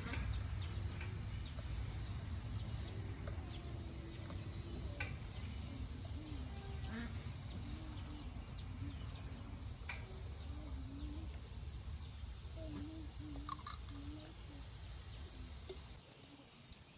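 Chickens clucking softly in short, wavering low calls, repeated on and off, with a few thin higher chirps. A low steady rumble sits underneath and drops away near the end.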